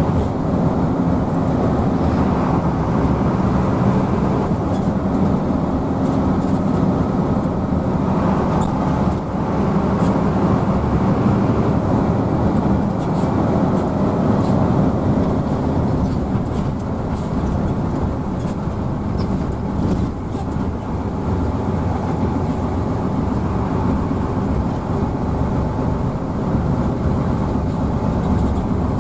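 Hino AK coach under way: a steady diesel engine drone mixed with road noise, heard from inside the passenger cabin.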